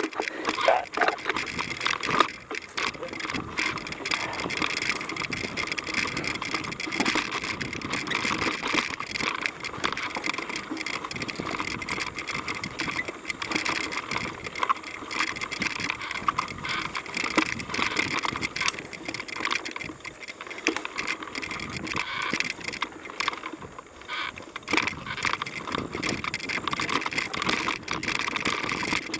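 Mountain bike being ridden along a dirt trail: continuous tyre noise with the chain and frame rattling and clicking over the bumps.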